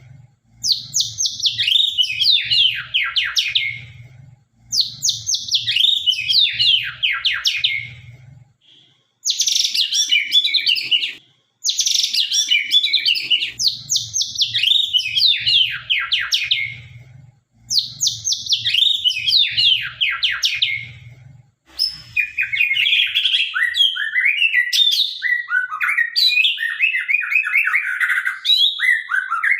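White-rumped shama (murai batu) of the Sabang strain singing a sharp, loud song. It repeats phrases of rapid notes that sweep downward, each about three seconds long with brief pauses. In the last several seconds it shifts to a lower, more varied warble.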